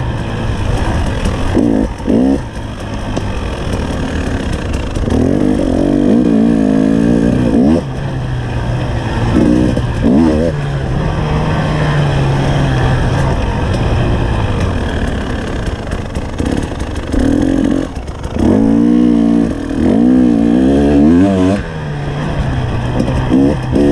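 Enduro dirt bike engine being ridden hard, its revs rising and falling in repeated surges of throttle, with a steadier lower-revving stretch in the middle.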